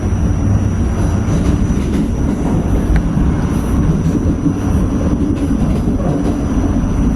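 New York City subway train running, a loud, steady rumble of wheels on the rails.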